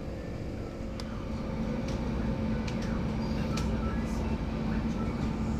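Train running: a steady rumble with a hum that grows louder about a second in, and scattered clicks and knocks.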